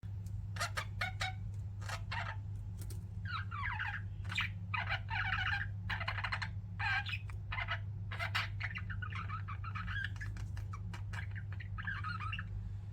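Pet budgerigars chirping and warbling: quick sharp chirps and longer chattering warbled phrases, one after another, over a steady low hum.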